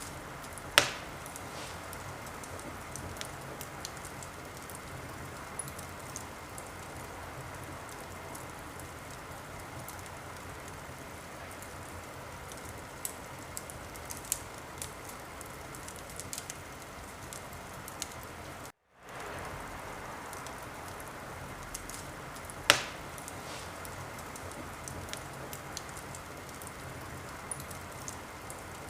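Wood fire crackling in a fireplace: a steady hiss with scattered small crackles, and two loud pops, one about a second in and one about three-quarters through. The sound cuts out for a moment about two-thirds through.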